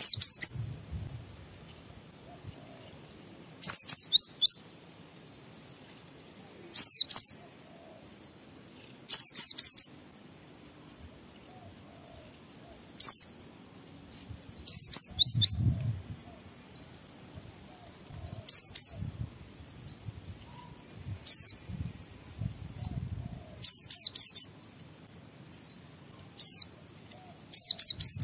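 White-eye (pleci) calling in short bursts of two to four quick, high, falling chirps, repeated every two to three seconds.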